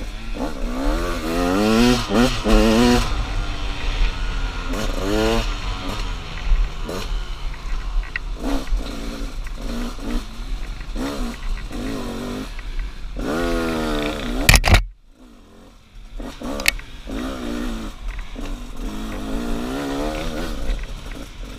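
KTM 200 XC-W two-stroke single-cylinder dirt bike engine, heard from the rider's helmet, revving up and falling off again and again as it climbs through the gears on a trail. Near the end of a long rev, about two-thirds through, there is a loud knock and the engine sound drops away for about a second before picking up again.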